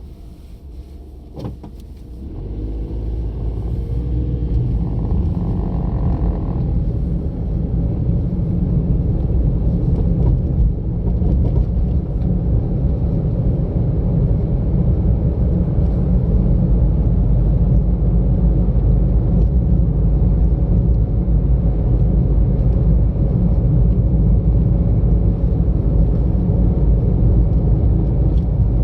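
A car driving, with a steady low rumble of engine and tyre road noise. It is quieter for the first two seconds, then builds over several seconds as the car picks up speed, and holds steady to the end. A single click comes about a second and a half in.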